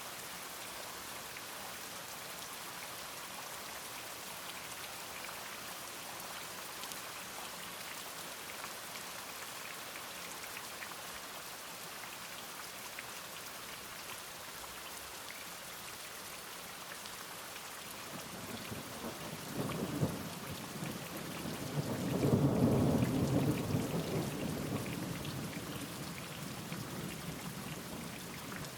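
Steady rain falling, with thunder rolling in about two-thirds of the way through: a rumble builds, a sharp crack, then a louder rumble that slowly fades.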